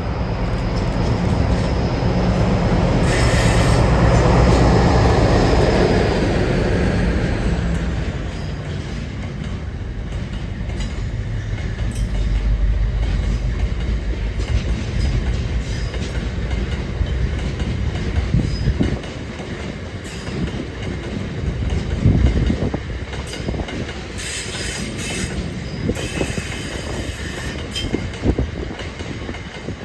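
British Rail Class 60 diesel locomotive passing close by, its engine running with a steady low drone that peaks about four seconds in and fades. The train behind it rolls past with a rhythmic clatter of wheels over rail joints, with short bursts of high wheel squeal near the start and again about three-quarters of the way through.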